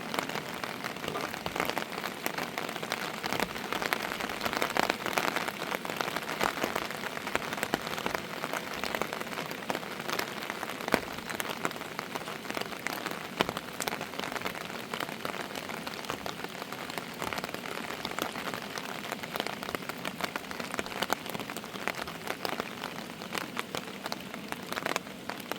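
Steady rain, with many individual drops ticking sharply on a surface among the continuous hiss of the downpour.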